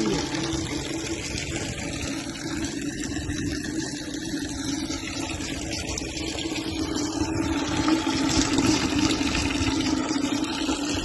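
Water running out steadily as it is drained from an aircraft fuel tank, over a constant hum.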